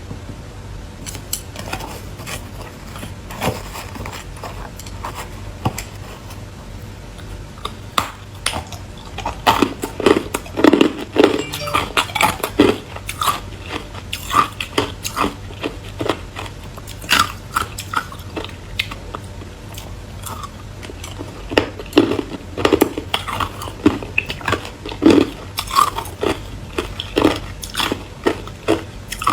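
A person biting and chewing hard ice, with irregular sharp crunches and cracks that come in clusters. They are thickest about a third of the way in and again toward the end, over a steady low hum.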